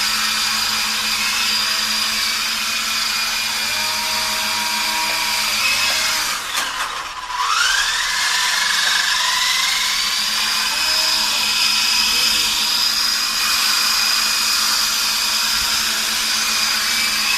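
Small electric motor and rotors of a radio-controlled helicopter running with a steady high whine. About six and a half seconds in it briefly drops, then the whine rises in pitch again and holds.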